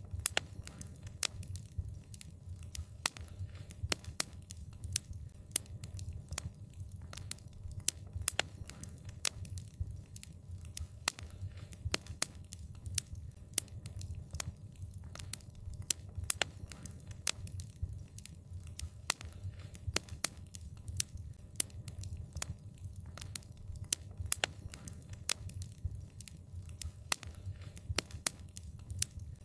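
Wood fire crackling, with frequent sharp, irregular pops and snaps over a low, steady rumble of burning.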